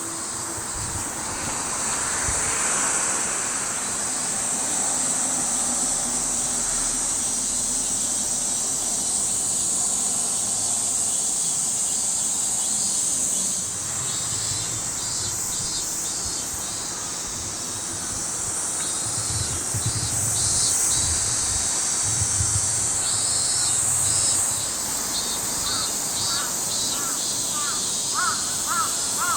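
Field ambience of harsh cawing bird calls over a steady, high-pitched insect drone, with rapid ticking insect calls joining about halfway through and short chirps near the end.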